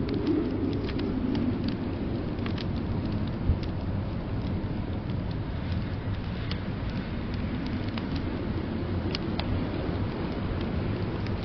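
Wood fire crackling in a fireplace, scattered sharp pops with a louder one about three and a half seconds in, over a steady low rumble of blizzard wind.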